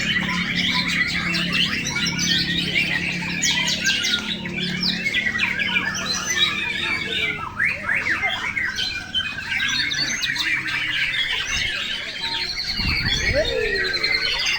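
Many caged white-rumped shamas (murai batu) singing at once, a dense, overlapping mix of loud whistles, trills and squawks. A low steady hum sits under the song for the first few seconds, and a few low thumps come near the end.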